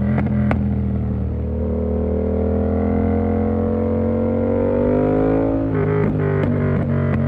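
Yamaha MT-07 parallel-twin engine through an SC Project exhaust with the dB killer in, pulling up steadily in revs for a few seconds under acceleration. Near the end the pitch drops suddenly at an upshift, and a few short clicks follow.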